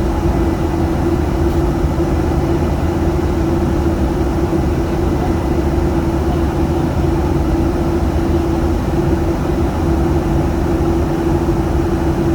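Steady drone of an airliner after takeoff, engine and airflow noise with a constant hum over a low rumble.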